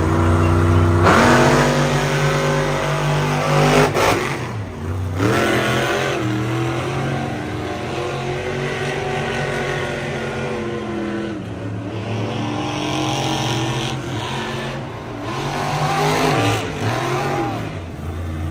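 An engine revving up and down repeatedly, its pitch rising and falling through the whole stretch, like a racing vehicle being driven hard.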